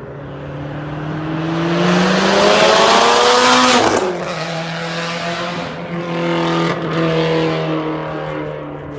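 Turbocharged car engine accelerating hard, its pitch climbing for about four seconds and loudest near the top. It then drops sharply in pitch and carries on at a steadier, lower note.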